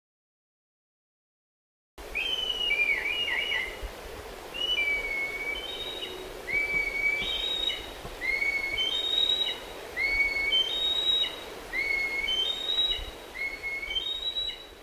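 Birdsong: short, clear whistled notes at several pitches, repeated in overlapping phrases. It starts suddenly about two seconds in, after a silent gap.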